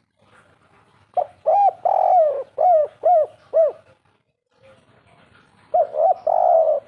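Spotted dove (derkuku) cooing. A full phrase opens with short notes and a long coo, then ends in three short evenly spaced 'kuk' notes, the 'kuk 3' song type. A second phrase starts near the end.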